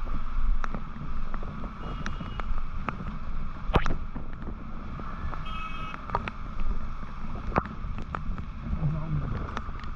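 Motorcycle on the move: steady road and wind rush over the engine hum, with scattered sharp ticks and a brief faint tone about five and a half seconds in.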